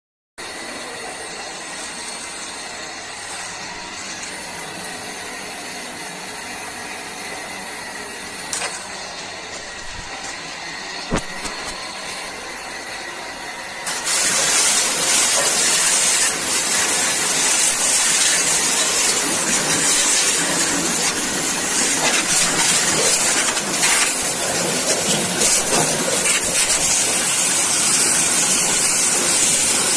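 High-pressure water jet spraying during air-conditioner cleaning: a steady hiss that suddenly gets much louder about fourteen seconds in.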